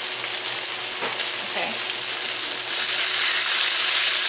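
Beef stir-frying in a wok, sizzling steadily, the sizzle growing louder about three seconds in.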